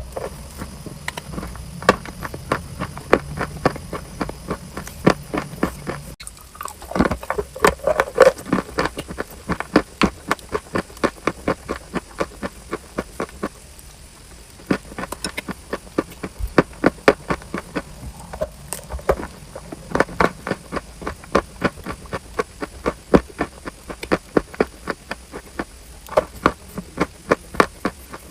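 Close-miked biting and chewing of crunchy chalk: a long run of sharp crunches, two or three a second, with short pauses about six seconds in and around the middle.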